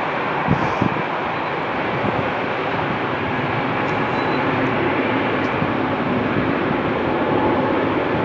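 Class 700 electric multiple unit running along the tracks: a steady rumble that swells slightly, with two sharp clicks from the wheels about half a second and a second in.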